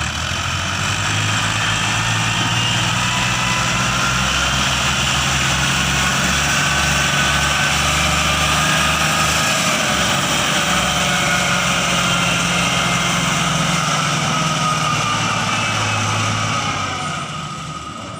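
Diesel tractor engine running steadily for a long stretch, fading away near the end.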